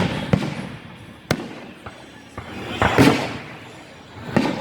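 Aerial fireworks shells bursting overhead: a string of sharp bangs, the loudest about three seconds in, each followed by a rumbling echo, with fainter crackles between them.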